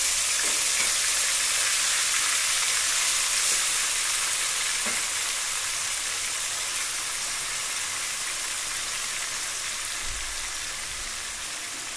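Chicken liver pieces frying in hot oil in a kadai: a steady sizzle that slowly gets quieter.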